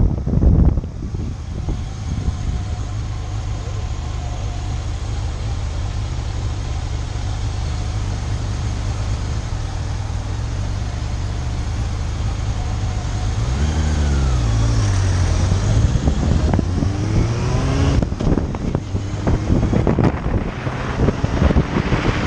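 Motorcycle engine running on the road under wind rush. A little past halfway the engine note dips and then climbs again, and near the end wind buffets the microphone.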